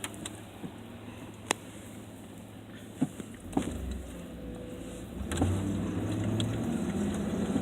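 A motor vehicle's engine rumble growing louder about halfway through, over a steady low hum, with several sharp clicks.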